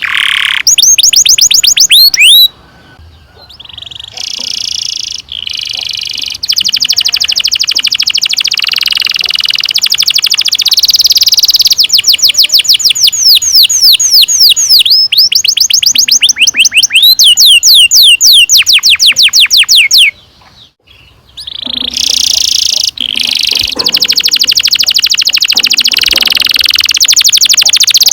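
Domestic canary singing long rolling trills of rapid, repeated falling notes, mixed with buzzier stretches, with two short breaks in the song.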